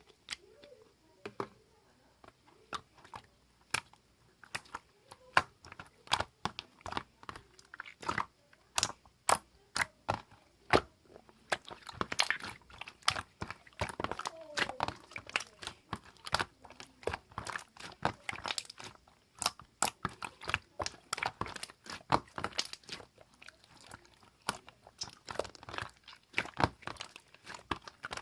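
Clear slime being squeezed and worked by hand, giving a steady run of irregular crunchy clicks and pops that grow denser about halfway through.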